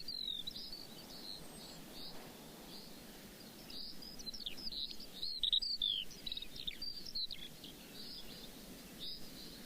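Several birds chirping and calling in short, quick bursts over a faint steady background hiss of outdoor ambience, the chirps coming in clusters, busiest around the middle.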